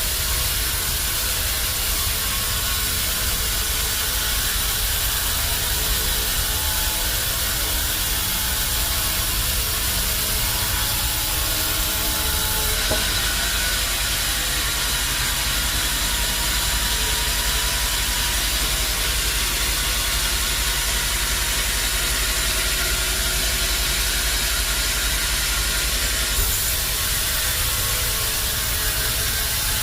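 Band sawmill running steadily, a continuous machine noise with a low rumble and a hiss; the upper part of the sound shifts about 13 seconds in and again near the end.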